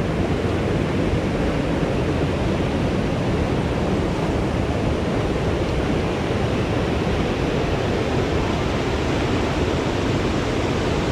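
Steady, loud rush of fast-flowing river water, even throughout.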